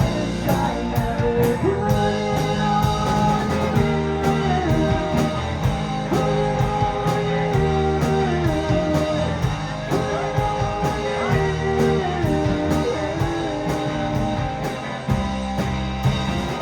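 Live indie rock band playing an instrumental passage: electric guitar lines over bass and a steady drum beat, about two drum strikes a second.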